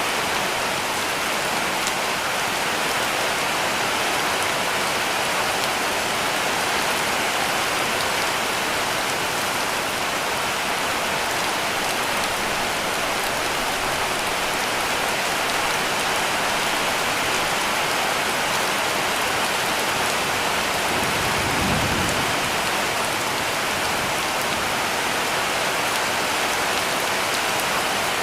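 Heavy rain falling steadily on a cabin roof, with a brief low rumble about three quarters of the way through.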